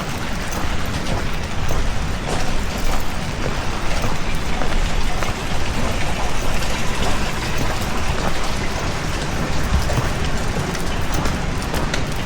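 Heavy rain falling steadily: a dense hiss with many small drop impacts pattering throughout.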